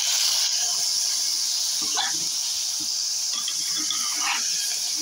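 Mutton trotters in hot oil in a pressure cooker sizzling with a steady, loud hiss of steam, the water having just been poured into the hot fat. A spatula stirs the pieces with a couple of short scrapes.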